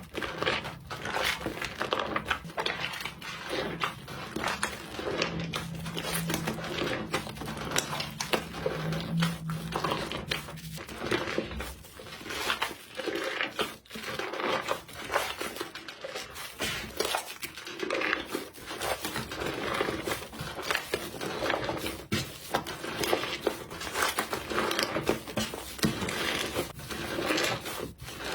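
Slime squished, pressed and poked by hand, giving a dense run of sticky crackles, pops and crinkles. A low steady hum lies under the first half and stops partway through.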